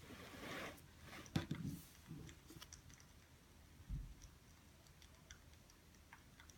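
Quiet handling sounds at a study desk: a brief rustle, a sharp click about a second and a half in, and a dull thump about four seconds in, over scattered faint light ticks.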